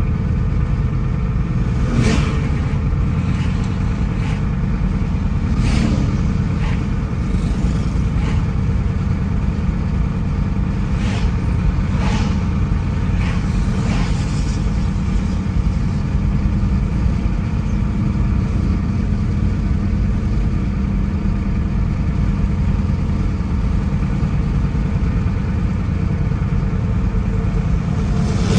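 A car driving along: a steady low rumble of engine and road noise, with a scatter of sharp knocks or clicks in the first half.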